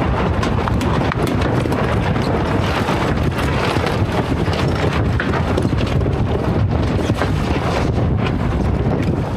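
Sailboat tacking in strong wind: a dense clatter of many short flaps and knocks from the sails and gear through the tack, over heavy wind rumble on the microphone.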